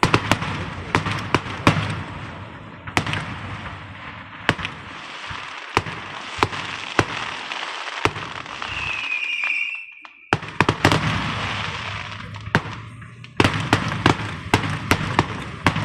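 Fireworks going off: rapid sharp cracks and pops over steady crackling, with a short whistle about halfway through. The sound breaks off briefly just after the whistle, then the popping resumes.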